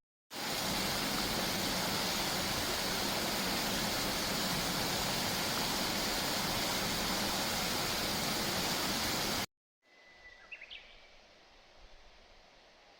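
Steady, loud rush of water that cuts off abruptly about nine and a half seconds in. A quieter background follows, with a brief high chirp soon after the cut.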